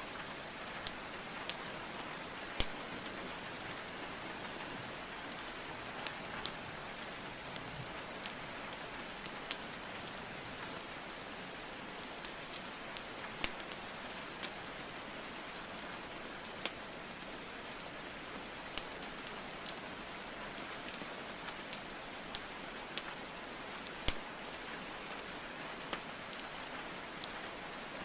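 Steady rainfall hiss mixed with a wood fire crackling, with sharp pops and clicks at irregular intervals, two louder pops standing out, one a few seconds in and one near the end.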